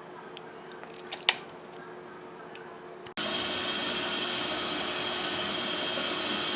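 A few faint clicks and clinks, the sharpest about a second in. Then, after an abrupt cut, a steady machine whir with a thin high whine, much louder than before.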